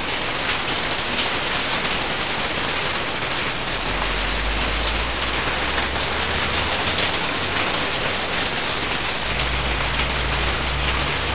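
Steady rain falling, a constant even hiss, with a low rumble coming in twice, in the middle and near the end.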